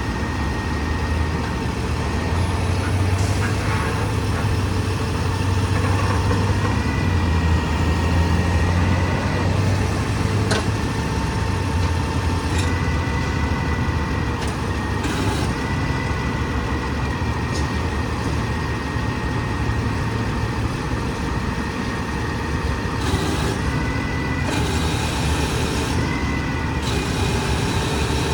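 Diesel engine of a 2014 Freightliner M2 grapple garbage truck running steadily, its low hum swelling between about two and ten seconds in, with a steady high whine over it and a few sharp clicks.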